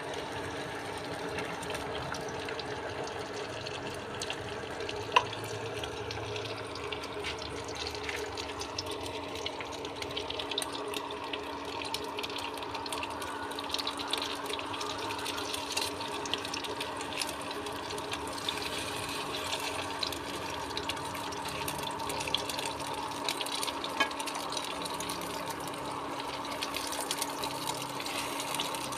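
Egg-dipped vegetables sizzling as they fry in oil, a steady hiss full of small crackles that thicken after the first several seconds, over a steady low hum. One sharp click about five seconds in.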